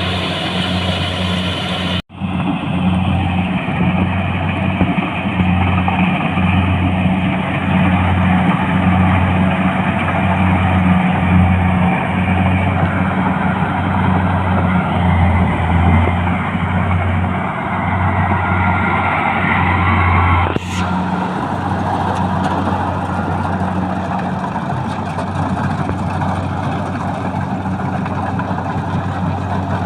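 Tractor engine running steadily while driving, an even low drone. It drops out sharply for a moment about two seconds in, and the sound shifts about two-thirds of the way through.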